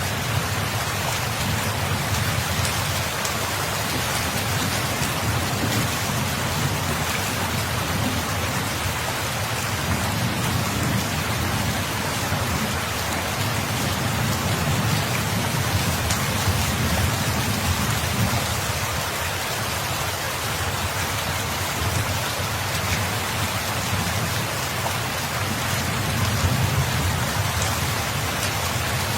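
Steady rain falling, a dense even hiss, with a low rumble underneath that swells and fades a few times.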